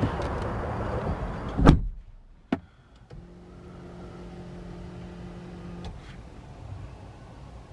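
A heavy car door thuds shut, and the outside noise drops away at once; after a click, an electric motor in the Audi RS Q3 Sportback's cabin hums steadily for about three seconds and stops with a click.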